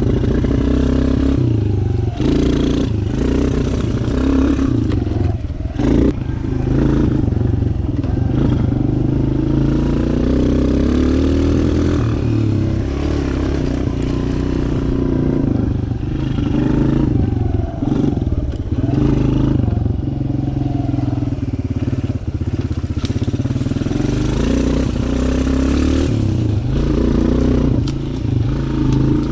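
Suzuki DR-Z125 dirt bike, big-bored to 150cc, its single-cylinder four-stroke engine running under throttle while ridden. The revs rise and fall, with brief drops in level a few times.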